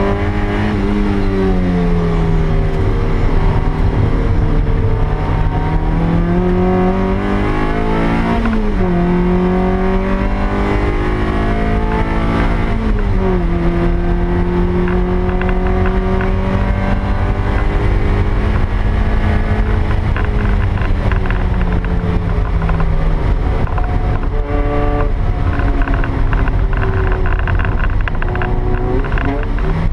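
Stock 1ZZ 1.8-litre inline-four of a 2000 Toyota MR2 Spyder, heard from inside the cabin, pulling hard around a track. It climbs and falls in pitch with the corners and drops sharply twice at gear changes, over a steady rumble of road and wind noise.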